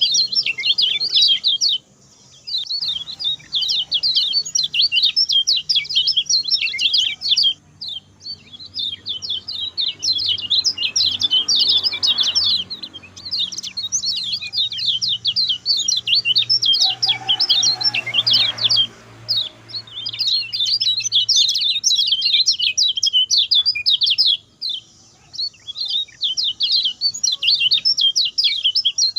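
Common iora (kecial kuning) singing a fast, short-phrased song of rapid chirps and trills, in long runs broken by brief pauses.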